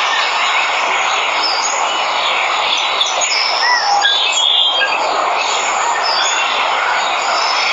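Steady rush of a waterfall, with many jungle birds chirping and whistling over it in short calls, some rising and falling in pitch.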